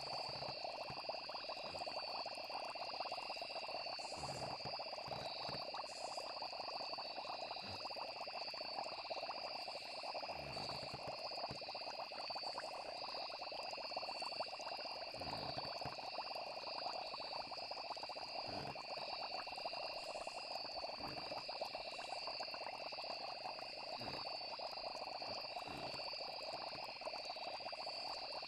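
Steady night chorus of trilling insects and calling frogs, with a few soft low thuds scattered through it.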